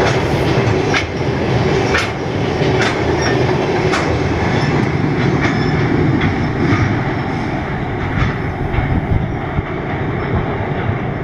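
Container wagons of a long intermodal freight train rolling across a steel girder bridge, with a steady rumble and wheel clicks about a second apart. The clicks grow fainter and more scattered as the end of the train draws away.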